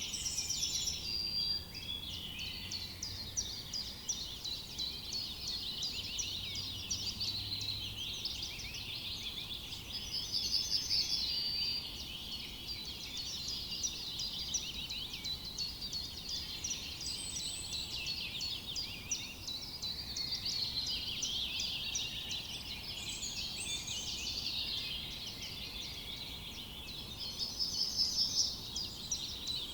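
A forest chorus of many songbirds singing at once: a continuous tangle of high chirps and trills, with a louder, fast repeated-note trill about a second in, again near the middle and again near the end.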